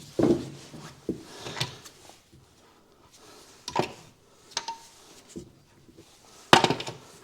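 Metal parts and tools being handled: a scatter of knocks and light metallic clinks, some ringing briefly, with the loudest cluster of knocks near the end.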